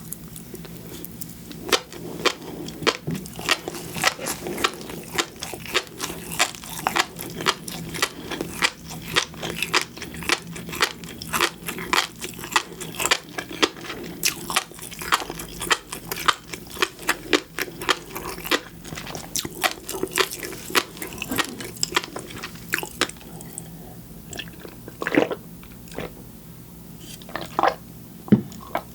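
Close-miked chewing of seafood: a dense run of wet crunching and sharp popping clicks, several a second, thinning to a few louder isolated clicks in the last several seconds.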